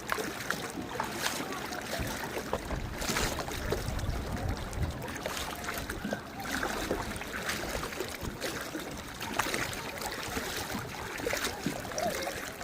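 Water lapping and splashing against a boat's hull, with irregular small splashes.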